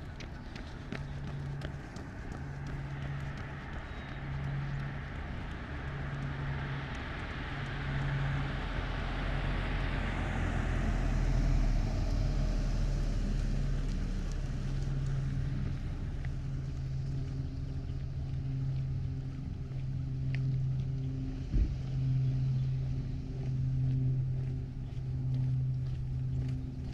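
A car passing by: road noise swells to a peak about halfway through, then fades. Beneath it runs a low hum that pulses about once a second at first and later holds steadier. There is one sharp knock about two-thirds of the way through.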